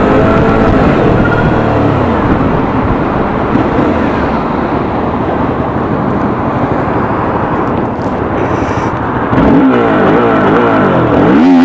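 Suzuki V-Strom 650's V-twin engine under way, its pitch rising and falling with the throttle. Near the end, the revs climb steeply and drop twice in quick succession, as in hard acceleration through the gears, over wind noise.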